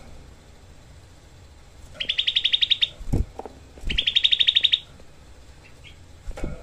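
Cucak kelabu (grey-bellied bulbul) giving two rapid rattling trills, its dense 'tembakan' shot call, each lasting just under a second with about fifteen notes a second. A few dull low thumps come between the trills and near the end.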